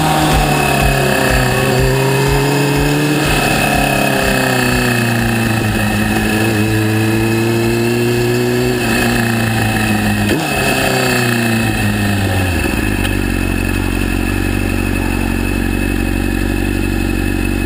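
Inline-four sport bike engine heard from on board as the bike slows off the track: the engine note falls, rises briefly three times as the rider changes down, then settles to a steady idle about twelve seconds in.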